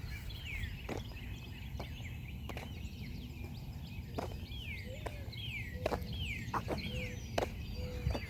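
Songbird singing outdoors: a run of quick down-slurred whistled notes, repeated in two bursts, over steady footsteps on a road about once a second. A few short, low, steady bird notes join in during the second half.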